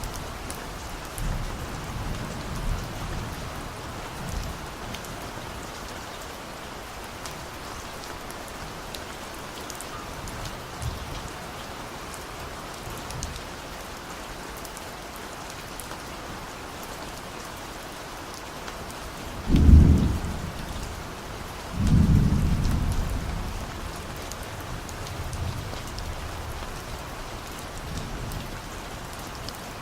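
Steady rain falling, with distant thunder rumbling low. Two louder deep rolls of thunder come about two-thirds of the way in, one short and one longer that fades out slowly.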